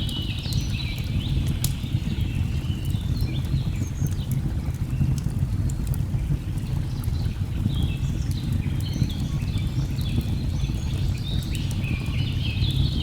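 Layered nature ambience: a steady low rush of a waterfall under a chorus of birds chirping in quick short calls, thickest at the start and again in the second half, with sparse faint crackles of a wood fire.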